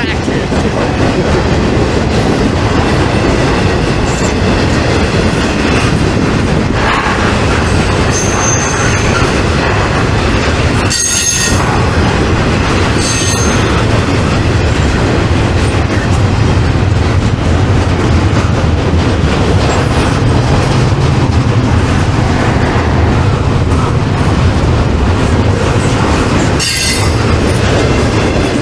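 Freight train rolling past close by: a loud, steady rumble of cars on the rails with wheel clatter, and short high-pitched wheel squeals a few times.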